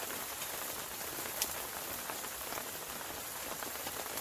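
Steady rain falling, with scattered single drops ticking and one sharper drop about a second and a half in.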